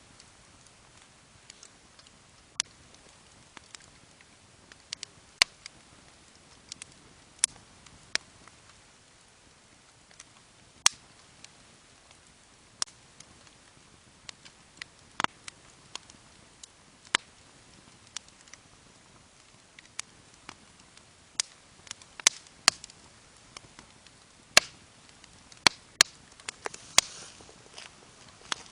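Campfire crackling: sharp, irregular pops of burning wood, a second or two apart, coming more thickly near the end.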